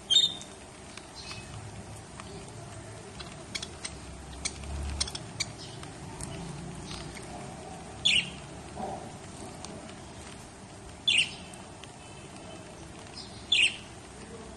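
Lovebird giving four short, sharp, high-pitched calls: one right at the start, then about 8, 11 and 13.5 seconds in. Softer ticks and clicks come in between, around four to five seconds in.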